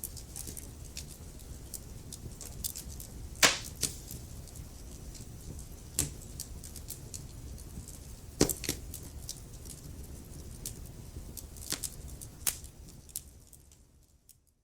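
Wood fire burning in a fireplace: a low steady rumble with frequent crackles and a few loud sharp pops. It fades out near the end.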